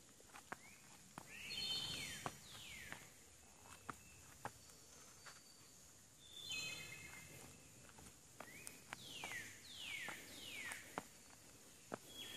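Wild birds calling: two quick runs of short stepped notes and several falling whistles. Light scattered clicks and scuffs come from sneakers stepping along the bark of a fallen log.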